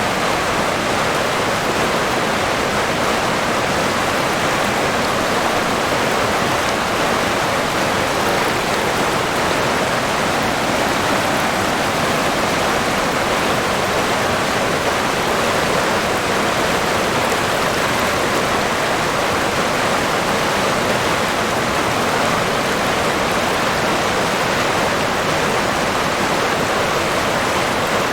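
River water rushing and babbling in a steady, unbroken wash.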